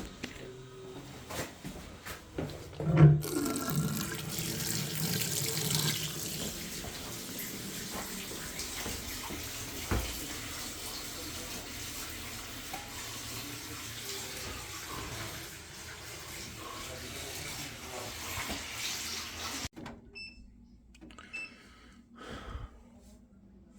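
Steady rush of running water, beginning with a knock about 3 seconds in and cutting off abruptly near the end, followed by a few faint clicks.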